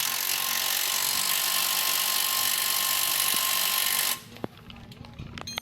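Power tool running steadily for about four seconds, a loud hissing whir with a steady tone in it, then cutting off abruptly. A few faint knocks follow.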